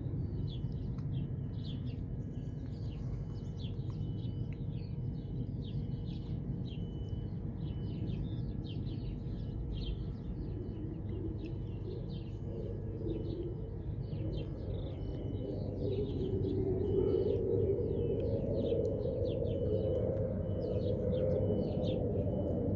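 Small songbirds chirping over and over throughout, over a steady low rumble that grows louder about two-thirds of the way through.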